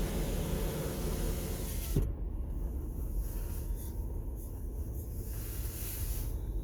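Low rumble and hiss of a vehicle running. About two seconds in there is a sharp click, then the hiss drops away, leaving a quieter low rumble.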